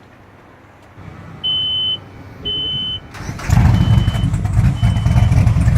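Two long electronic beeps from the helm's start-up warning, then the Donzi offshore powerboat's big engines crank and fire about three seconds in, settling into a loud, low, steady rumble while fainter beeps carry on.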